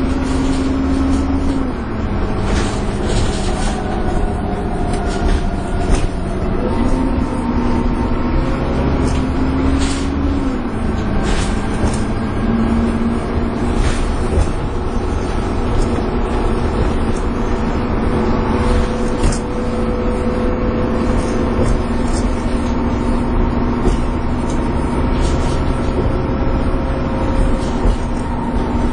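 Dennis Trident 2 double-decker bus heard from on board, its engine and drivetrain running with a steady whine, the uploader's 'hoovering'. The pitch steps down and up a few times in the first half as the bus changes speed, then holds steady. Short rattles from the body come through now and then.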